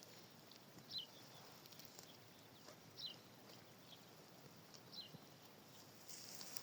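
A small bird's short, high chirp falling in pitch, repeated about every two seconds, faint against a quiet background.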